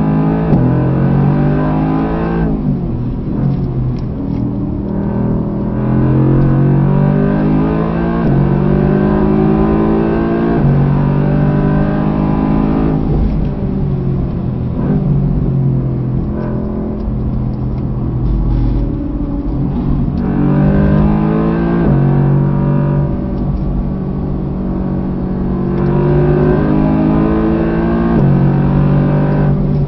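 Mercedes-AMG GT R's twin-turbo V8 under hard acceleration, heard from inside the cabin. Its pitch climbs through each gear and drops back at every gear change, several times over, with tyre and road noise underneath.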